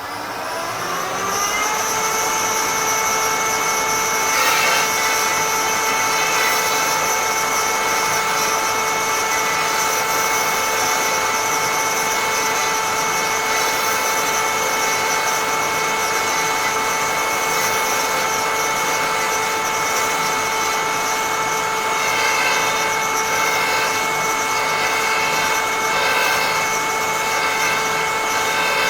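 High-speed cutter motor on a woodturning threading jig spinning up with a rising whine over about two seconds, then running steadily at speed with a high whine. Some irregular scratchy noise comes and goes near the end.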